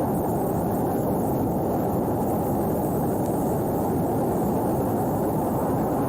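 Steady, dense low-pitched noise with no distinct events.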